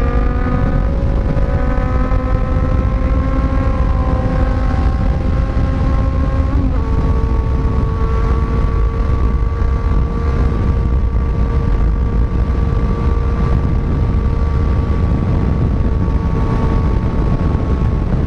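Kawasaki inline-four motorcycle engine running steadily under light throttle. About seven seconds in, a gear change drops the revs, and it settles to steady cruising. Wind rushes over the microphone throughout.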